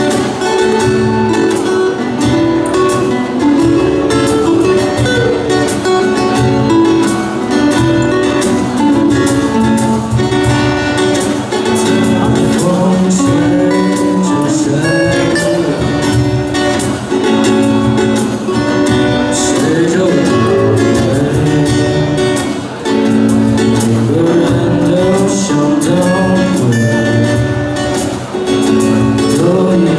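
A live band playing a song: electric and acoustic guitars with a drum kit keeping a steady beat, and a lead vocal singing over them.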